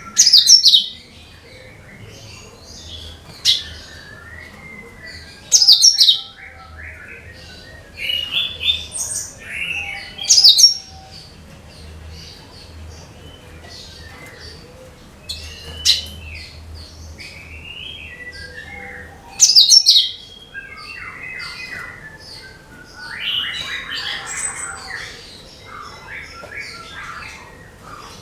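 Cucak kinoi singing: short, loud, sliding whistled phrases and chattering bursts every few seconds, with quieter twittering between them.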